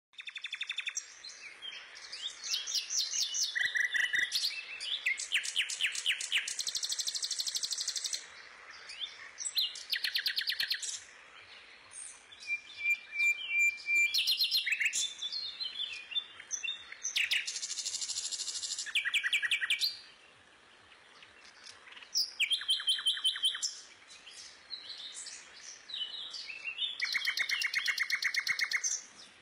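Songbirds singing: repeated high-pitched chirps and rapid trills in phrases of one to a few seconds, with short pauses between.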